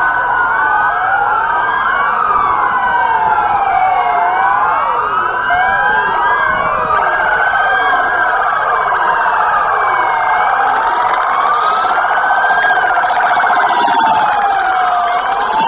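Several police car sirens wailing at once, each pitch sweeping up and down, the sweeps overlapping out of step with one another.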